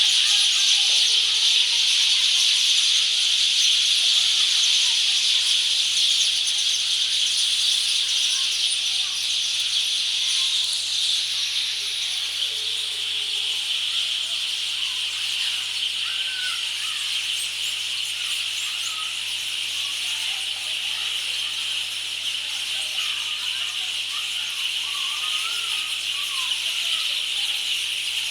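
A large flock of birds calling together in a tree: a dense, steady chattering chorus with scattered separate chirps.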